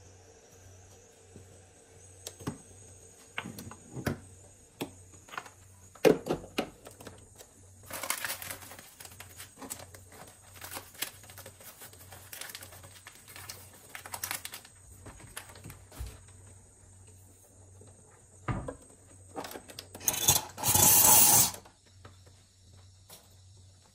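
Household handling sounds: scattered clicks and knocks with some rustling, and a loud hiss lasting about a second and a half near the end.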